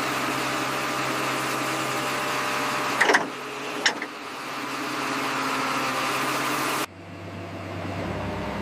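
An engine running steadily at idle, with a steady pitched hum. The sound shifts briefly about three seconds in and drops abruptly to a quieter low hum near the end.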